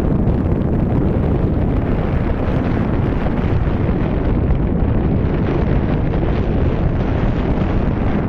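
Wind buffeting the camera microphone on a moving boat: a steady, dense rumble strongest in the low end, with no break.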